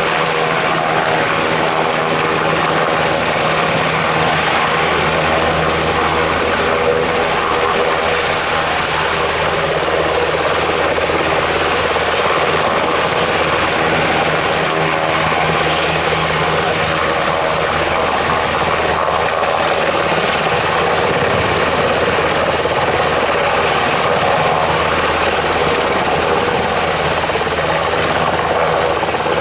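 UH-60 Black Hawk helicopter running steadily and loudly: the thrum of its main rotor over the whine of its twin turboshaft engines.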